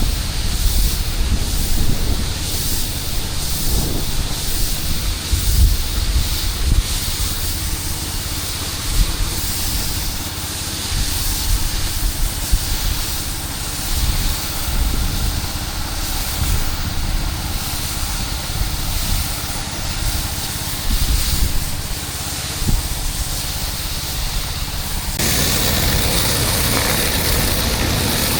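Pressure washer running, with a steady hiss of water spray on concrete over the low drone of the machine. About 25 seconds in, the hiss turns abruptly brighter and louder.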